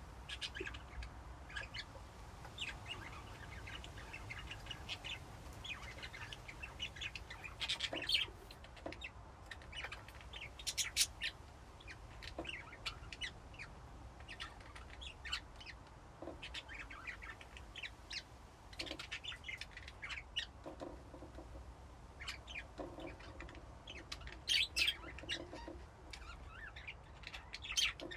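A flock of budgies chirping and chattering, many short high calls overlapping at an uneven pace, with louder clusters of calls at several points, over a low steady hum.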